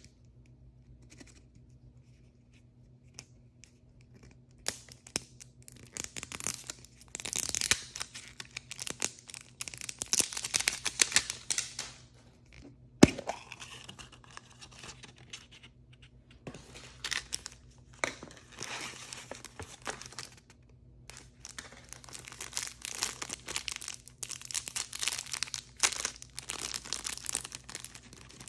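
Blind-bag toy packaging being torn open and crinkled by hand, in repeated bursts of crackly rustling after a quieter start. A single sharp snap about halfway through is the loudest sound.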